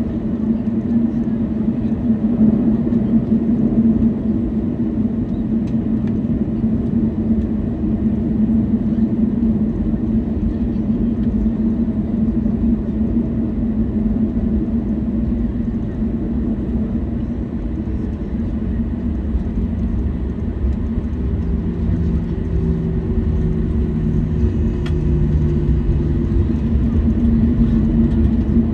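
Cabin noise inside a Boeing 737-800 taxiing: a steady rumble and hum from the CFM56-7B engines at idle and the wheels rolling. From about two-thirds of the way in, a lower droning tone joins it.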